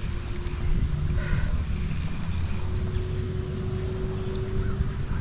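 Wind buffeting the microphone, a steady low rumble, with a few faint high chirps near the end.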